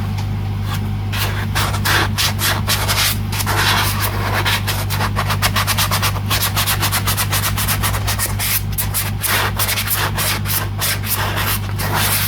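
Hand sanding of a guitar body with sandpaper backed by a soft pad, in rapid back-and-forth strokes that smooth down dried grain filler. A steady low hum runs underneath.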